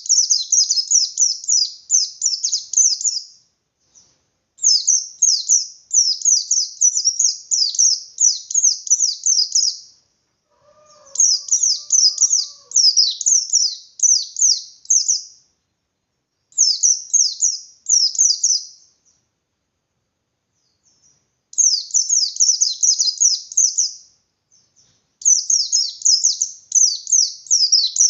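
A white-eye (pleci) singing its fast, insistent 'ngalas' song: rapid runs of high, down-slurred chirping notes in bursts of two to five seconds with short pauses between, about six bursts in all. This is the aggressive wild-style song that provokes other white-eyes to answer.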